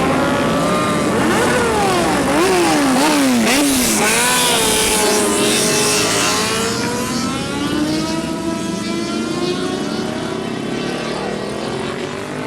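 A car engine revving: several quick throttle blips in a row about two seconds in, then longer rising and falling revs that ease off slightly toward the end.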